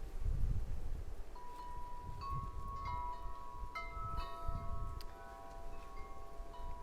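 Wind chimes ringing in strong gusty wind, several tubes struck irregularly and ringing on at different pitches, with gusts of wind rumbling on the microphone.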